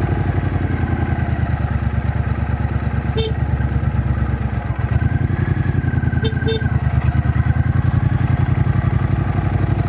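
A Triumph Bonneville T120's 1200 cc parallel-twin engine running while the motorcycle is under way, its exhaust pulses steady. The sound dips briefly about halfway through, then the engine pulls on a little louder.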